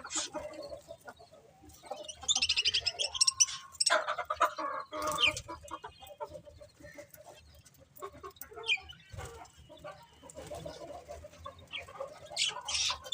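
Budgerigars chirping and chattering in irregular bursts, with rapid warbling trills, quieter for a few seconds in the middle.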